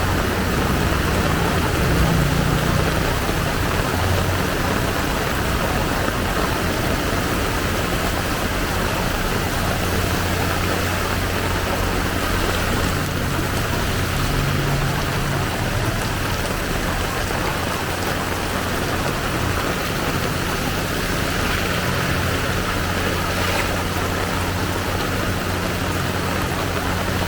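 Heavy downpour pouring steadily, a constant hiss of rain, with the low steady hum of a vehicle engine underneath.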